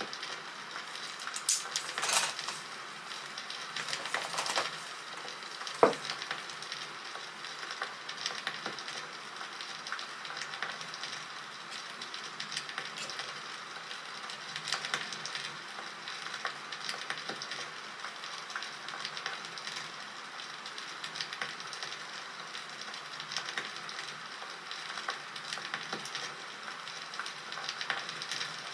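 Wood fire crackling: a steady hiss with scattered pops, a few louder ones about two seconds in and one sharp pop about six seconds in.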